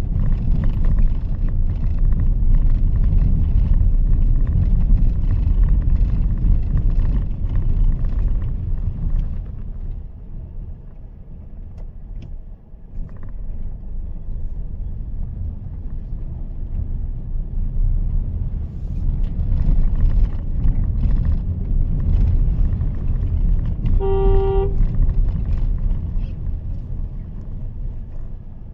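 Mahindra XUV 3XO driving on wet city roads in rain: a steady low rumble of tyres and its 1.2-litre turbo three-cylinder petrol engine, with a hiss of wet road spray. The sound eases off for a few seconds around the middle. A car horn toots once, briefly, about three-quarters of the way in.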